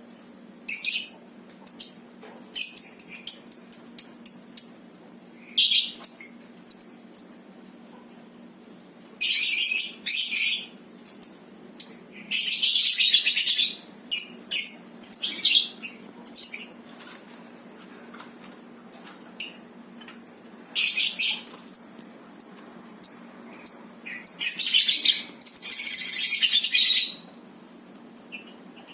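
Lovebirds chirping and screeching in shrill bursts: runs of short sharp chirps and several longer harsh screeches lasting one to two seconds, with quiet gaps between.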